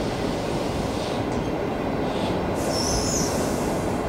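Chinese-built passenger coaches of a departing train rolling past, a steady rumble of wheels on rail, with a brief high squeal from the wheels a little before three seconds in.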